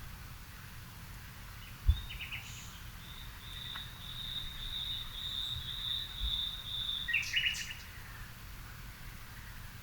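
Garden birds chirping in the evening, with a long high, even trill lasting about four seconds in the middle, over a steady low outdoor rumble. A single low thump about two seconds in.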